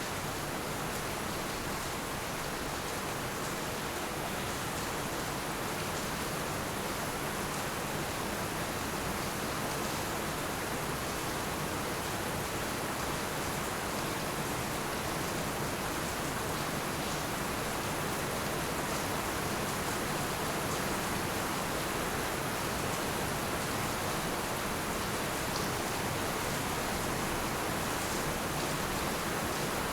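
Heavy rain falling steadily, a dense even hiss with a few faint drop ticks scattered through it.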